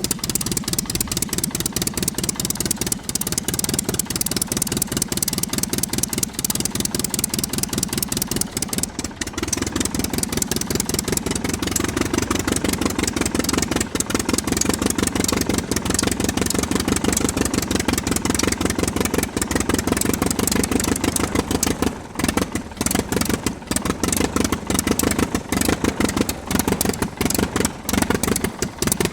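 Miniature diesel-style engine made from PVC, running with a rapid, even chugging beat. Its sound fills out a little about ten seconds in, and it briefly falters a couple of times near the two-thirds mark.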